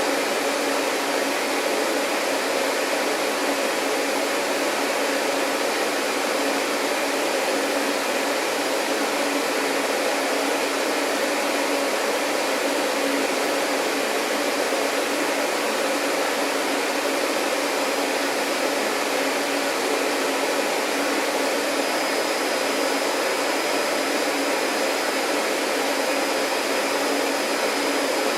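Vacuum cleaner running steadily with an even whooshing hum. A faint high whine joins in about two-thirds of the way through.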